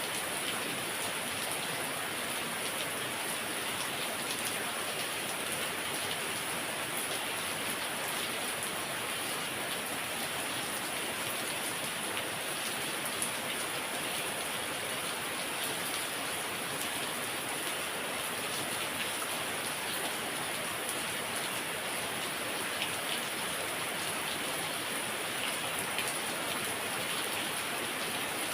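Heavy rain falling steadily, a dense even hiss with many fine drop patters on surfaces.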